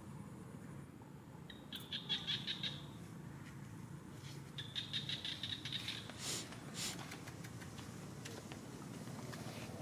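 A bird's rapid, high chirping trill, heard twice about three seconds apart, over a steady low background hum. Two sharp clicks follow about six seconds in.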